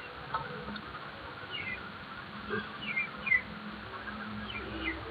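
A small bird chirping a few times, short high falling notes, some in quick pairs, over a faint steady background, with a few light clicks of handling.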